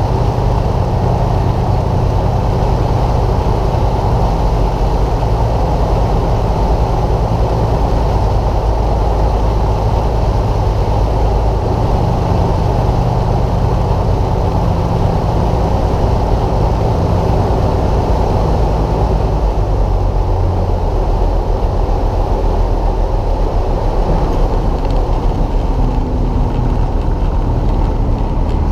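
Light aircraft piston engine and propeller droning steadily during a landing approach, heard from inside the cabin. The engine note changes slightly a couple of times.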